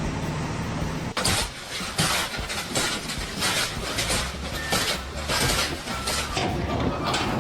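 An engine running with a steady low hum, and from about a second in a rapid series of loud, noisy bursts, roughly two a second.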